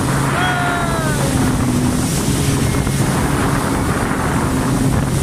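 Jet ski engine running steadily at speed, with heavy wind buffeting the microphone and water rushing past. A brief high-pitched cry that falls in pitch comes just after the start.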